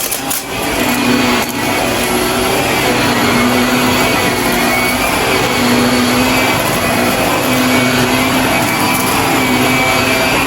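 Shark vacuum cleaner running steadily: a loud rush of air with a motor hum whose note comes and goes.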